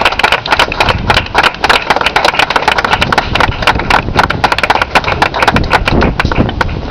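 Audience applause: many separate hand claps, thinning out and stopping near the end.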